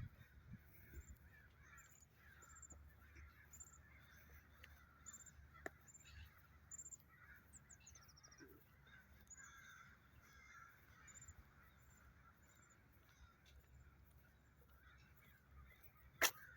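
Faint bird calls: short high chirps about once a second and a quick falling run of notes about halfway, over a low steady hum. A single sharp click near the end.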